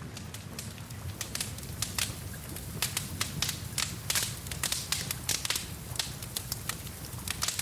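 Wood fire crackling, with many irregular sharp snaps and pops, several a second, over a steady low rumble.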